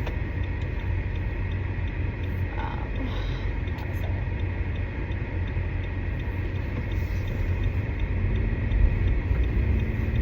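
Car cabin road noise: a steady low rumble of the moving car, with a faint regular ticking of the turn-signal indicator, about three ticks a second.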